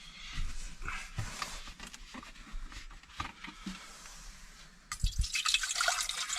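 Light clinks and knocks of cookware being handled, then, about five seconds in, water being poured into a cooking pot with a steady splashing hiss.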